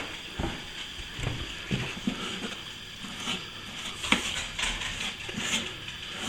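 A metal filling knife working plaster filler, with irregular scrapes and small taps.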